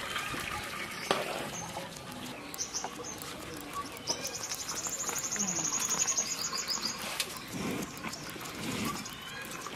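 A small bird's rapid, high trill of quickly repeated notes, starting about four seconds in and lasting about three seconds, with a shorter high call just before it.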